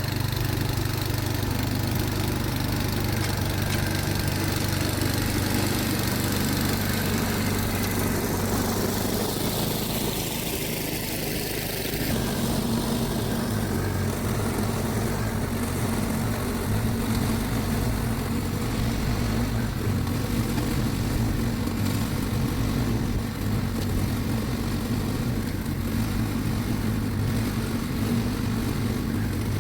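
Snowblower engine running steadily while clearing a snow drift, its note changing abruptly about twelve seconds in.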